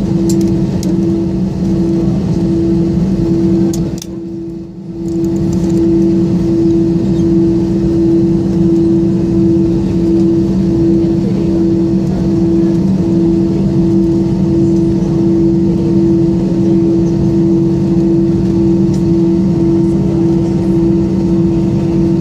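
Cabin noise of an Airbus A320 taxiing after landing: the steady low hum of the jet engines at idle, with a droning tone that pulses about twice a second. The sound drops away briefly about four seconds in, then returns.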